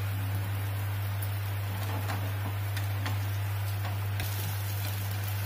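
Pesarattu (moong dal dosa) frying in oil on a hot pan, a soft steady sizzle, under a steady low hum.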